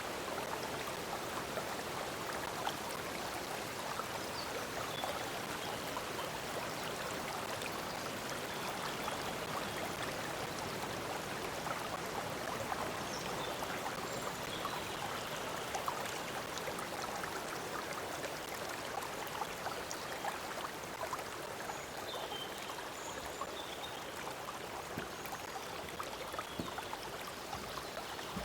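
Stream water flowing and babbling steadily over stones, with a few faint high bird chirps now and then.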